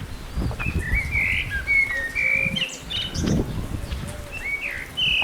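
Songbirds chirping, a quick run of short sliding whistled notes, over a low rumbling noise.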